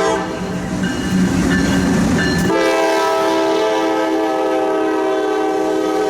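Diesel locomotive's multi-note air horn sounding a chord: the tail of one blast fades right at the start, then a long blast begins about two and a half seconds in and holds on, over the rumble and clickety-clack of a passing freight train.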